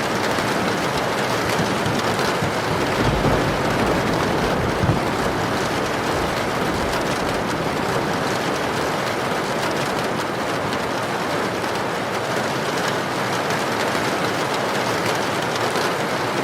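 Heavy rain pouring steadily in a rainstorm, with a low rumble about three to five seconds in.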